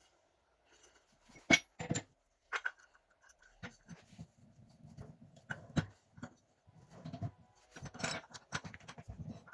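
Irregular clicks and knocks of tools and parts being handled, the sharpest about one and a half seconds in.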